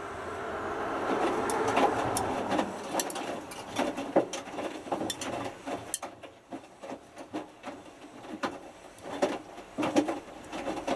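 Hotpoint Futura HF8B593 front-loading washing machine in its main wash, the drum tumbling a small load of t-shirts through the water with sloshing and splashing. The tumbling eases off about six seconds in and picks up again near the end.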